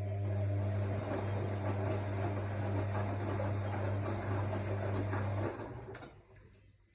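AEG Lavamat L62850L washing machine running: a steady motor hum with water and laundry churning over it, stopping about five and a half seconds in, then a faint click.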